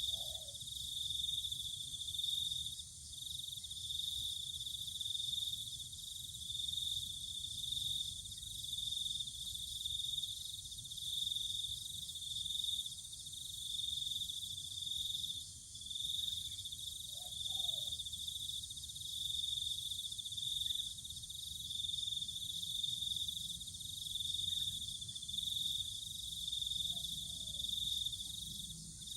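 Continuous high insect chirring, a steady, slightly pulsing buzz, with a few short faint low bird calls about 17 seconds in and near the end.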